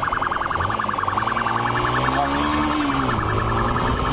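Police siren sounding continuously with a fast pulsing warble, over lower tones that slowly rise and fall.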